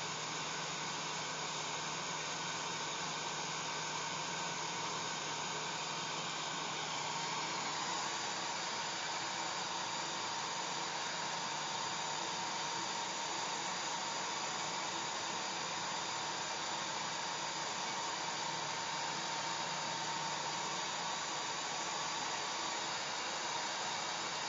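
Hair dryer running steadily: a constant rush of air with a motor whine and a low hum. The mix of tones shifts slightly about eight seconds in.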